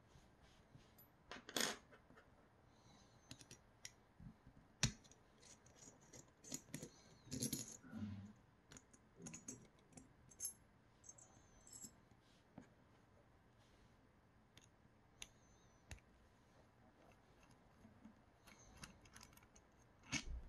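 Small metal parts and tools of a 3D-printer extruder being handled during disassembly: scattered light clicks and clinks, a few of them with a short metallic ring.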